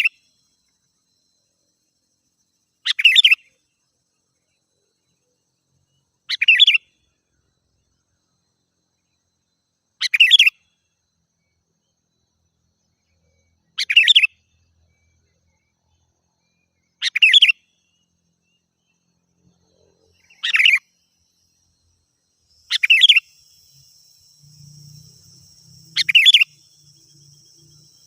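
Sooty-headed bulbul (kutilang) giving a short, loud, bubbling call about every three and a half seconds, eight or nine times in all. Near the end a steady high insect trill, like a cricket, starts up behind it.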